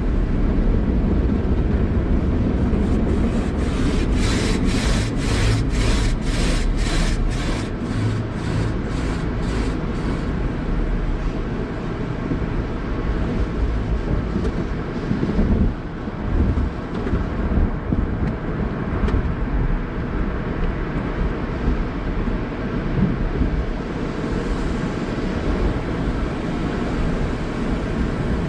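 Car wash machinery running on a car: a steady low rumble and wash of noise, with a run of quick, regular swishes, about two a second, from about three to ten seconds in.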